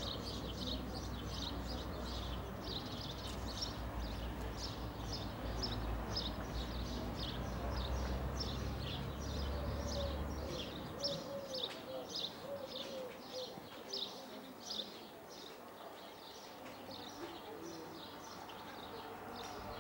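A small bird chirping over and over, short high chirps about two to three a second, over a low rumble that fades out about halfway through.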